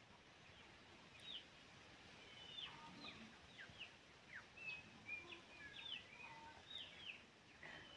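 Faint birdsong: many short, quick chirps, most sliding down in pitch, scattered over a quiet outdoor background.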